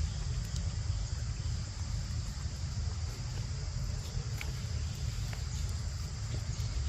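Steady high-pitched drone of insects such as crickets, over a low rumble, with a few faint clicks.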